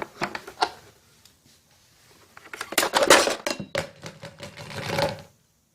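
Rice cooker parts being handled on a workbench: a few light knocks and clicks, then a longer run of clattering and clinking of hard parts for about three seconds that stops suddenly.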